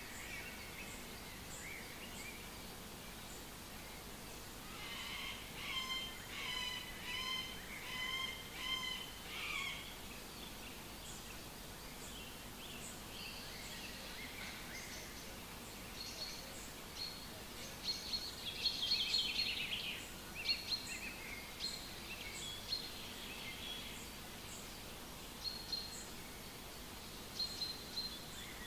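Songbirds singing in a forest over a steady background hiss, with a run of repeated song phrases about five seconds in and a second busy stretch of chirping past the middle.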